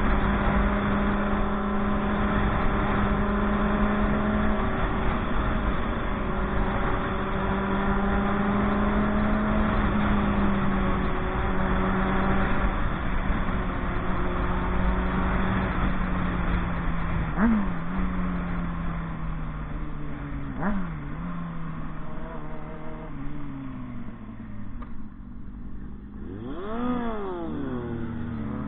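Motorcycle engine running at a steady cruising pitch, with two quick throttle blips past the middle. The engine then winds down in pitch as the bike slows, and revs up and back down near the end.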